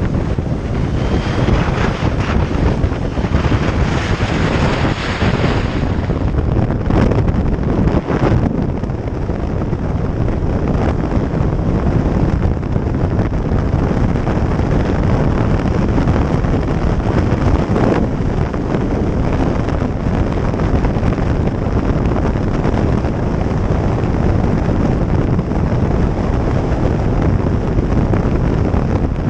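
Wind buffeting the microphone of a moving motorcycle, a loud steady rush with the bike's engine and road noise underneath.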